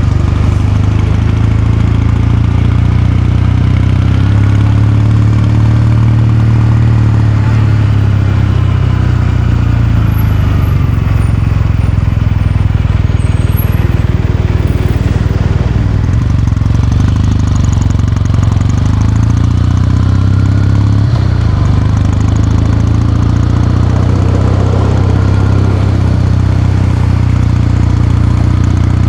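Kawasaki Meguro K3's air-cooled parallel-twin engine and exhaust running at a fairly steady, low engine speed, with small rises and dips in pitch.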